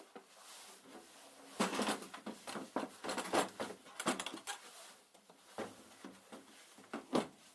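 Irregular clicks, knocks and rustling of things being handled, louder from about a second and a half in.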